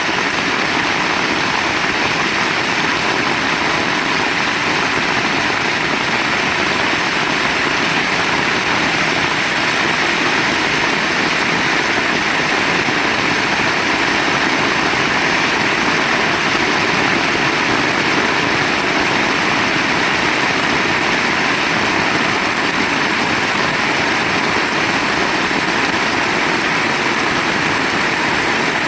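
Heavy rain falling steadily, a loud even hiss with no breaks.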